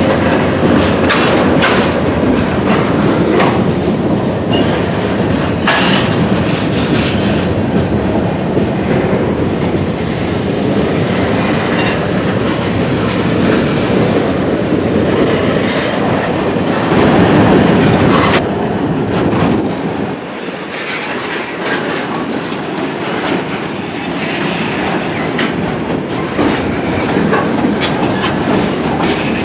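A train rolling past, its wheels clicking and clacking over rail joints above a continuous rumble.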